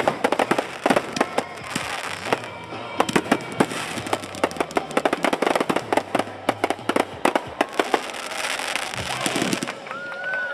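Aerial fireworks bursting in rapid succession: dense volleys of sharp bangs and crackles, with a crackling hiss swelling near the end.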